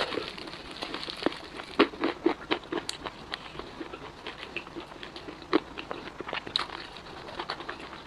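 Fried chicken being bitten and chewed close to the microphone: irregular crisp crunches of the coating, with a cluster of louder bites about two seconds in.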